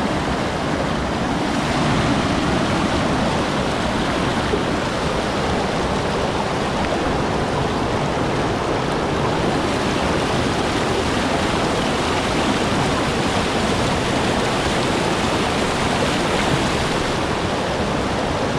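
Fast stream water rushing and splashing over rocks in a steady loud rush.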